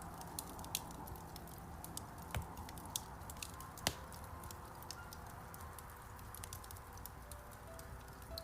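Wood fire crackling in a fireplace: a steady hiss with many small crackles and a few sharper pops, the loudest a little under a second, about two and a half and about four seconds in. Faint piano notes sound underneath near the end.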